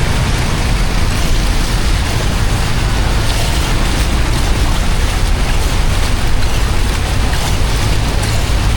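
Loud, steady rush of water with a deep low rumble.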